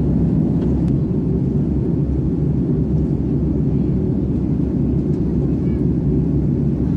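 Steady low rumble of an Airbus A330's cabin in cruise flight: engine and airflow noise, unchanging throughout.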